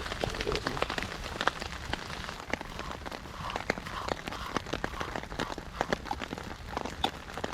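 Rain falling, with many drops ticking irregularly on a tarp shelter.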